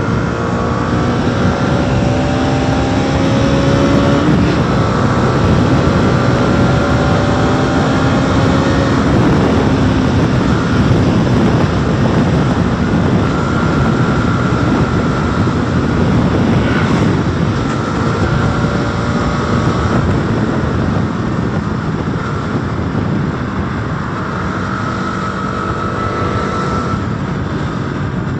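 Motorcycle engine running hard at high speed, its pitch climbing slowly over the first several seconds as it accelerates, then holding fairly steady, under a heavy rush of wind on the rider's microphone.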